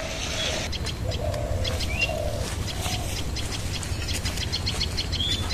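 Birds calling: a few low cooing notes in the first half, and quick high chirps and short twitters throughout, over a steady low rumble.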